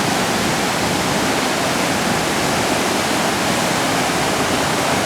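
Steady rush of a flooded river running high, the rapid water swallowing a normally 3-foot waterfall.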